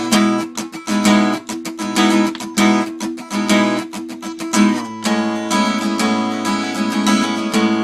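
Acoustic guitar strummed in an instrumental passage between sung lines: short, sharp strokes for about five seconds, then fuller, ringing chords.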